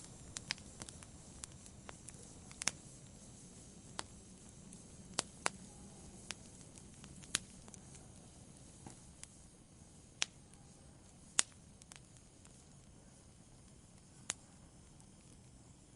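Wood fire burning, with irregular sharp crackles and pops over a faint low rustle; the pops come more often in the first half and thin out toward the end.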